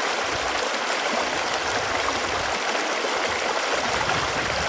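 Running water flowing steadily, an even rush with many small bubbling gurgles.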